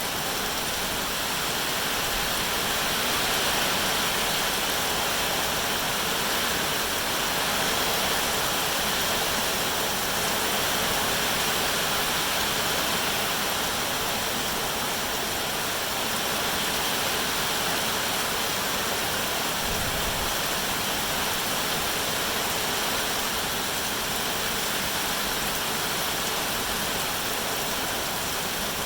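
Steady rain, an even rushing hiss with no distinct drops or other sounds standing out.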